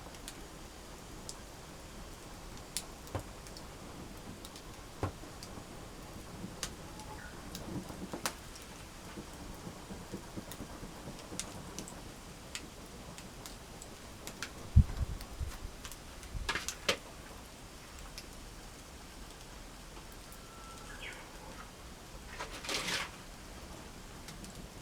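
Wood campfire crackling: scattered sharp pops and snaps over a low steady hiss, with a dull thump about fifteen seconds in and a short rustling burst near the end.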